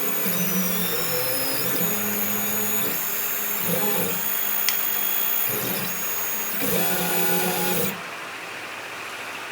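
CNC machine running a job: stepper motors whine at pitches that change every second or so as the axes move, over a steady high whine and hiss. The motor tones and most of the noise stop about eight seconds in, and a quieter hiss remains.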